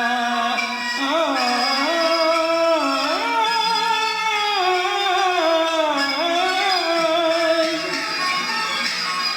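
A man singing a Peking opera aria over instrumental accompaniment, in long held notes that bend and waver in pitch.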